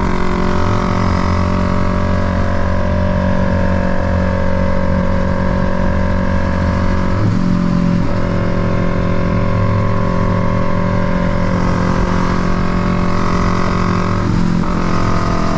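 A car engine running at a steady, loud drone. Its pitch shifts abruptly about halfway through and again near the end.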